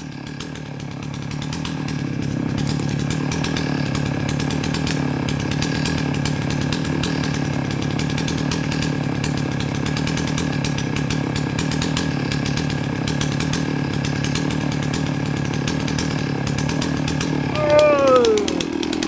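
Two-stroke chainsaw running steadily, its level building over the first couple of seconds and then holding even. Near the end a short, loud falling tone cuts across it.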